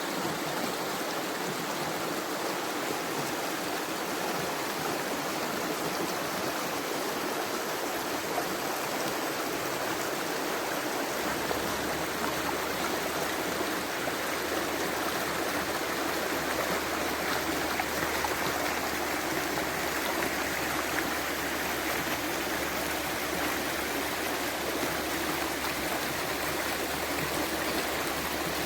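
A stream running steadily: a continuous, even rush of flowing water.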